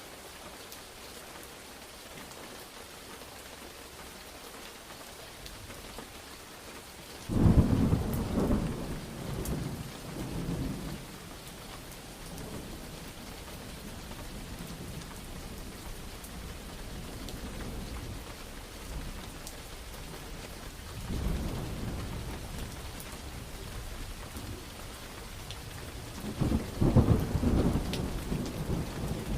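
Steady rain falling, with thunder: a sudden loud crack and rumble about a quarter of the way in that dies away over a few seconds, a softer rumble past the middle, and another loud rumble near the end.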